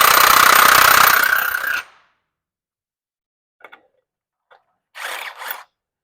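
Handheld power tool runs in one burst of about two seconds, then stops sharply. A few light clicks and a short rattle of parts being handled follow.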